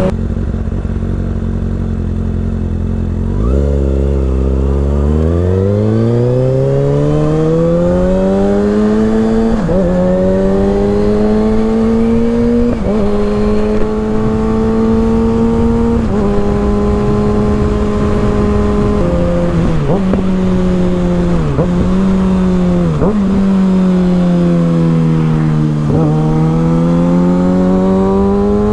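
Kawasaki ZX-6R 636 inline-four with an M4 GP exhaust, pulling away a few seconds in and climbing in pitch through upshifts, each marked by a short drop in the engine note. It then holds a steady note with a few brief dips, eases off and builds revs again near the end.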